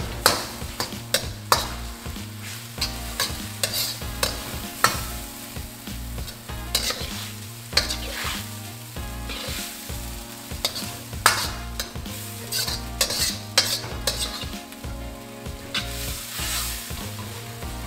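A metal ladle scrapes and clanks against a steel wok as egg noodles and pok choy are stir-fried, with repeated sharp strikes a few times a second over a steady sizzle.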